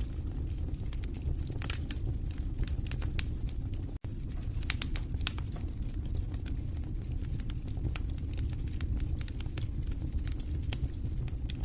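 Fireplace fire burning: a steady low rumble of flames with irregular sharp crackles and pops. The sound cuts out for an instant about four seconds in.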